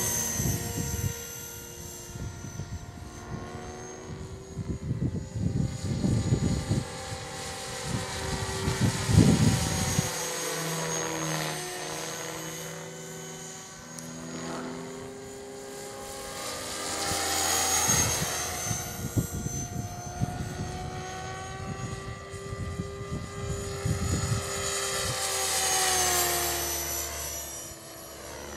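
CopterX 500 electric RC helicopter flying fast passes: its rotor buzz and motor whine swell and fade and slide up and down in pitch as it comes and goes. Gusts of wind rumble on the microphone at times.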